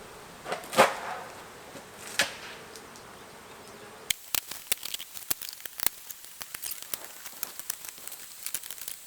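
Honeybee colony buzzing in a steady hum, broken by two loud knocks about one and two seconds in. From about halfway there is a run of sharp crackling clicks, while the hum fades out.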